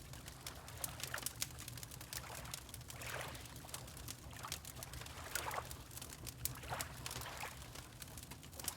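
Water lapping in small gurgling splashes every second or two, over the steady crackle and pop of a wood fire in a fireplace and a low, even hum.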